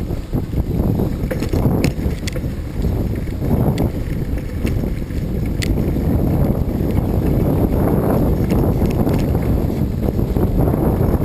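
Wind buffeting the microphone as a steady low rumble, with a few sharp clicks about two seconds in and again near the middle.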